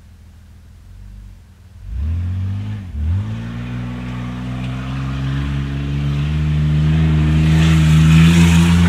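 1995 Ford Explorer's engine idling faintly, then revving hard about two seconds in as it pulls away, with a brief drop in revs a second later before climbing steadily in pitch and loudness under full acceleration.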